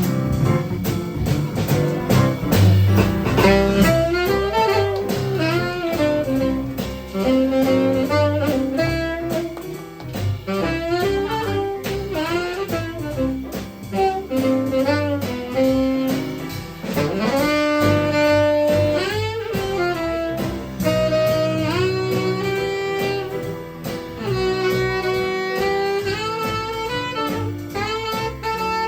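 Live band playing a jazz-style tune: a lead instrument carries a melody with sliding, bending notes over bass and drums.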